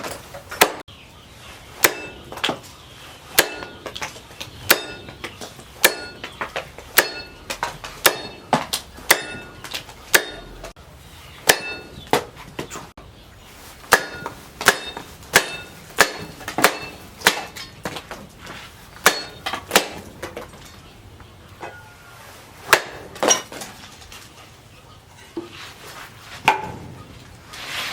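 A heavy carbon-steel machete made from a disc-plough disc chopping repeatedly, with sharp strikes about one or two a second. Many strikes leave a short metallic ring from the blade. The strikes thin out in the last third.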